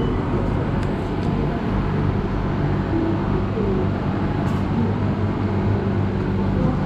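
Steady hum of an electric train standing at a station platform, with a low drone of steady tones from about two seconds in and faint murmur of passengers.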